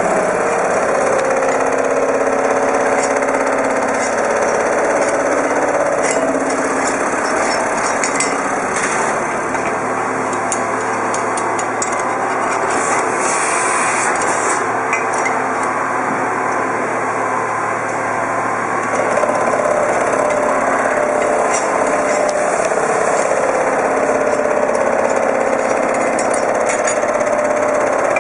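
Lathe running in a machine shop: a continuous mechanical noise with a shifting mid-pitched whine, a little louder about two-thirds of the way through.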